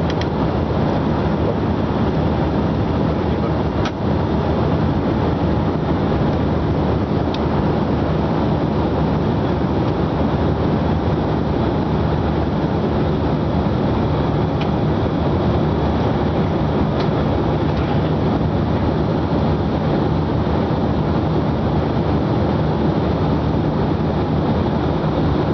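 Steady cabin noise of a jet airliner climbing after takeoff: the engines' drone and rushing airflow with a low hum, unchanging throughout.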